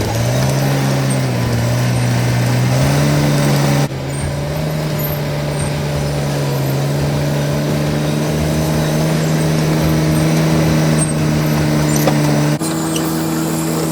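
Cat D7 bulldozer's diesel engine running under load, its pitch stepping up and down as the work changes, with abrupt shifts in the engine note about four seconds in and again near the end.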